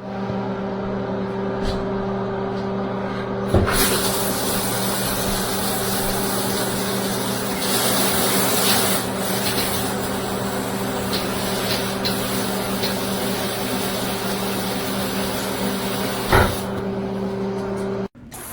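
Water spraying hard from a shower head, with a steady hum underneath. A knock about three and a half seconds in is followed by a stronger, brighter spray, which drops back after another knock near the end.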